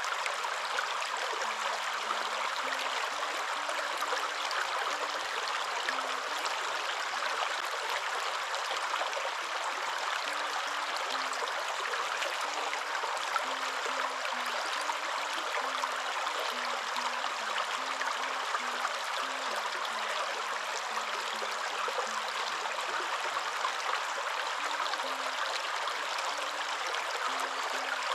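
Waterfall: a steady, unbroken rush of falling water, white-noise-like and even in level.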